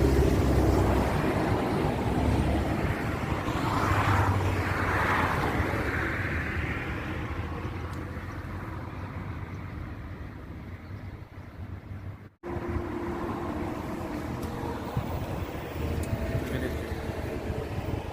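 Motorway traffic noise: a vehicle swells past about four seconds in, then the noise slowly dies away. It breaks off abruptly about twelve seconds in and picks up again as steady traffic rumble.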